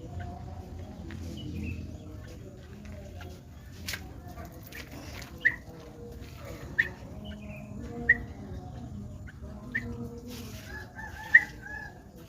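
Bird calls: a series of short, sharp chirps about a second or so apart, the loudest near the end, over chickens clucking.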